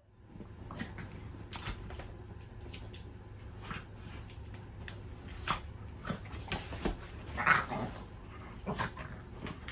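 Dogs scuffling, with scattered sharp clicks and knocks and a short dog vocalisation, the loudest sound, about seven and a half seconds in, over a steady low hum.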